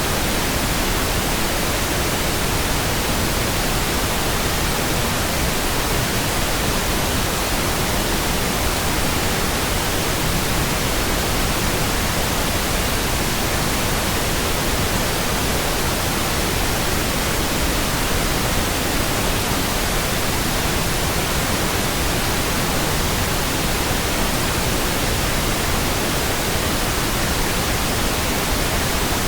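Steady pink noise: an even, unchanging hiss spread across the whole range from deep to high, with no changes or events.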